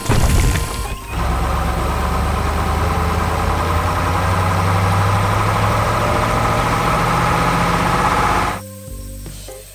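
Heavy machine engine running steadily, as a sound effect in an animation. It stops abruptly near the end. A short loud sound comes just before it, in the first second.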